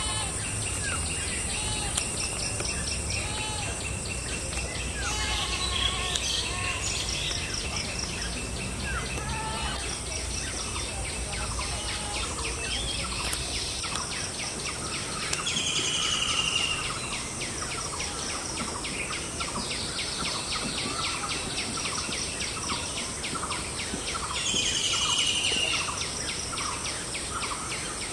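Several birds chirping and calling over one another in quick repeated notes, with a steady high-pitched drone behind them. Twice a louder falling call stands out. A low rumble fades out about halfway through.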